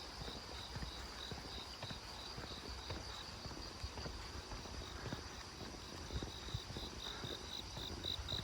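Footsteps walking at a steady pace on a path, about two steps a second, with insects chirping in a high, even pulse that grows louder near the end.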